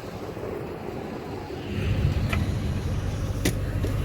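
The 2006 Mustang GT's 4.6-litre V8 running at a steady idle, its low hum coming in about halfway through. Two sharp clicks sound over it.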